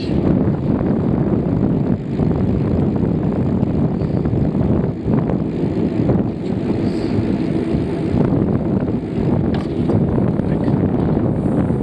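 Wind buffeting the microphone of a moving bicycle rider: a steady, loud rumble with no breaks.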